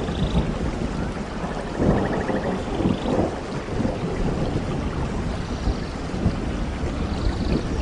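Steady rain with low rumbling thunder, the rumble swelling about two seconds in.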